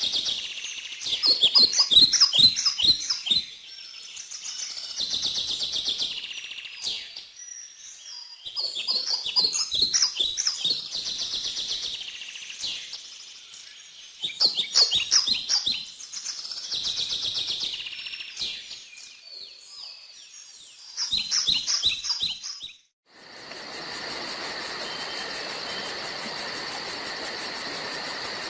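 Songbirds singing in the forest, one bird repeating a short chirping, trilling phrase every few seconds. About 23 seconds in, the sound cuts out briefly and changes to a steady, high, rapidly pulsing insect trill.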